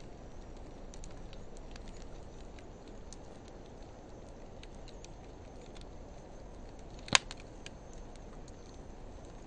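Wood fire of driftwood and dry hardwood burning in a fire pit, played back at half speed: a steady low rumble of flame with scattered faint crackles, and one loud sharp pop about seven seconds in.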